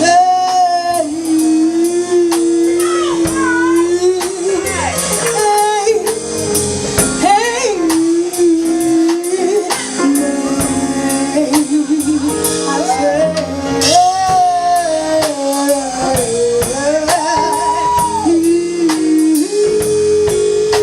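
Live band playing a slow soul-blues song with drums, bass and guitar, a woman singing long held notes with vibrato over a steady drum beat.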